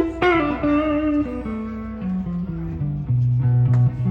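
Electric guitar playing a blues intro lick in B: a run of single notes stepping down in pitch, ending on a low note held near the end.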